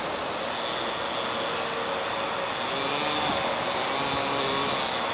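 Steady outdoor background noise with a distant engine drone, its pitch sliding slightly in the middle, and a faint steady high tone above it.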